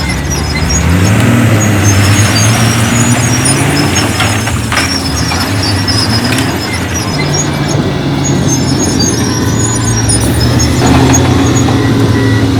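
Heavy diesel engine of construction machinery working under load, revving up about a second in, easing off around six to seven seconds and pulling up again near the end. High metallic squeaks come and go throughout, with a couple of knocks around four to five seconds in.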